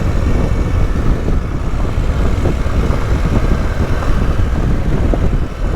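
Adventure motorcycle running on a dirt road, its engine rumble mixed with wind buffeting on the helmet microphone.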